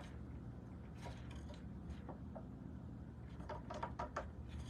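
A few faint light clicks and taps of small objects being handled on a work table, most of them bunched about three and a half to four seconds in, over a low steady hum.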